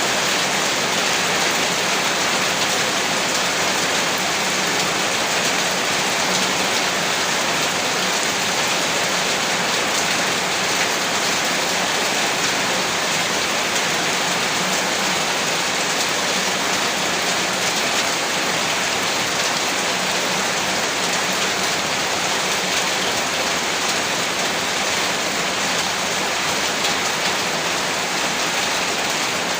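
Heavy rain falling steadily on a rooftop, an even hiss of drops without thunder or any change.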